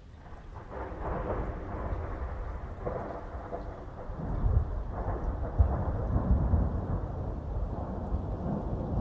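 Rolling thunder: a low rumble swells up from quiet at the start and grows louder, with several heavier peaks in the middle.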